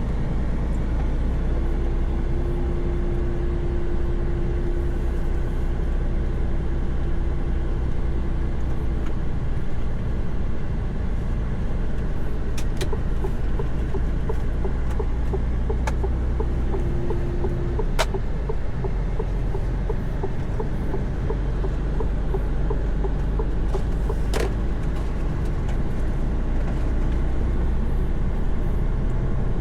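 Inside a Mercedes-Benz Actros truck cab while driving: a steady diesel engine and road drone, with a humming tone for several seconds near the start and again briefly halfway through. A few sharp clicks stand out over the drone.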